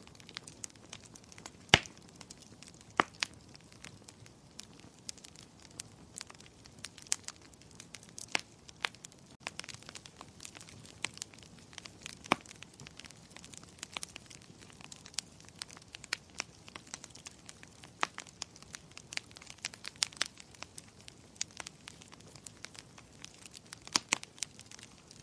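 Wood fire crackling: a soft steady hiss with frequent irregular snaps and pops, the loudest a little under two seconds in.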